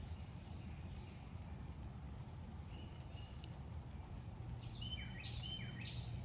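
Backyard songbird chirping: a few faint high notes, then a quick run of sharp chirps near the end, over a steady low outdoor rumble.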